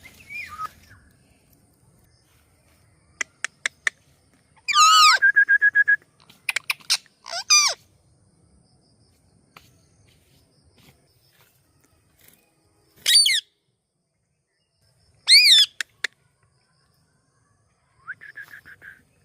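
Indian ringneck parrot giving short, loud calls that waver in pitch, spaced several seconds apart. There is a quick run of clicks about three seconds in and a short steady whistle near the end.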